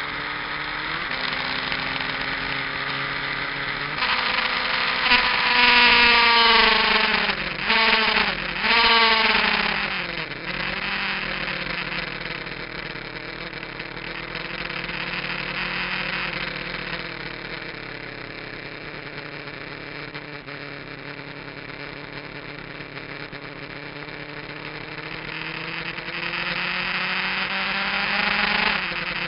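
Kawasaki GPZ900R's inline-four engine on track, heard onboard: revs climb hard a few seconds in, then fall with three quick dips like downshifts, hold steady through the middle and build again near the end.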